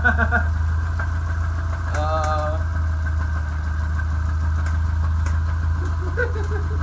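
Subaru EJ25 2.5-litre flat-four engine idling steadily with a knock, which the owner places in the crankshaft: a sign of a failing bottom end.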